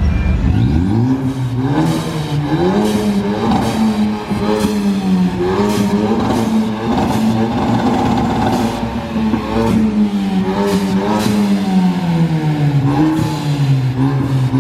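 Car engine revving as it pulls away, its pitch climbing in the first second and then rising and falling, with sharp crackles scattered through.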